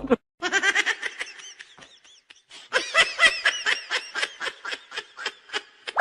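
Human laughter in two bouts of quick, rhythmic 'ha-ha' pulses. The first fades out about two seconds in; the second, louder, starts a little under three seconds in.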